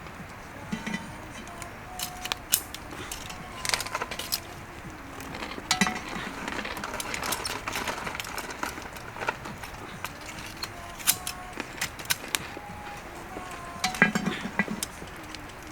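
Spoons and tableware clinking and tapping against dishes during a meal: short, sharp clinks at irregular intervals, with a cluster of them near the end.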